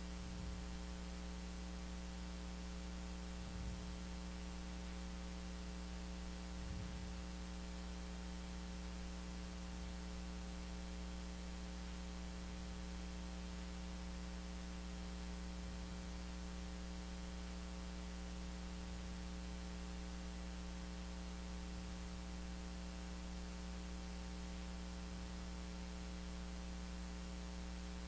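Steady electrical hum, a stack of even low tones over a constant hiss. Two faint soft knocks come about 4 and 7 seconds in.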